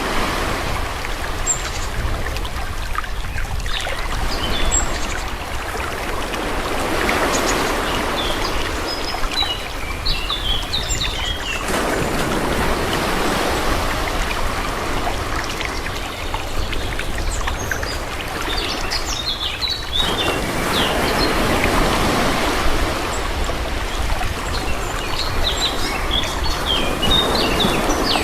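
Calm sea waves washing in and drawing back, swelling and fading about four times, with small birds chirping over the water and a steady low rumble beneath.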